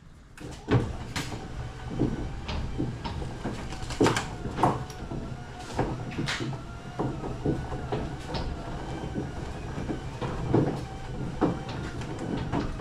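Irregular metallic clanks and knocks of hand tools and engine parts being handled during an LS engine teardown, over a steady low hum.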